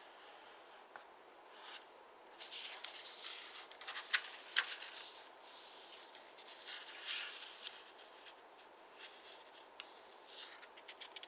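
A square of origami paper being handled and folded by hand: soft rustling and rubbing, with a couple of sharp crackles about four seconds in, then lighter ticks.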